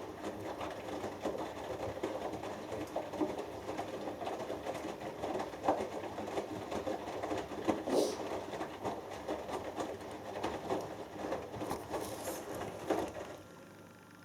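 Hoover Dynamic Next front-loading washing machine drum turning slowly with a wet load tumbling inside: an irregular clatter and rustle that stops about 13 seconds in, leaving a faint hum.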